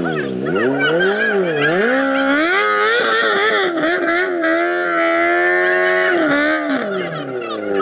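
Rally car engine revving hard while the car is stuck off the road and being pushed out by hand. The revs swing up and down several times, are held high for a few seconds, then drop near the end.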